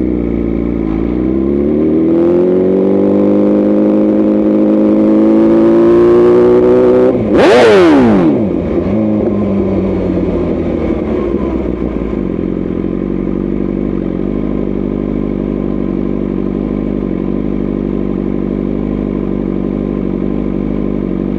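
BMW S1000RR inline-four sport bike engine with an aftermarket tune. Its note rises steadily under acceleration, then comes a loud burst about seven seconds in as the revs drop sharply. From about twelve seconds it settles to a steady idle.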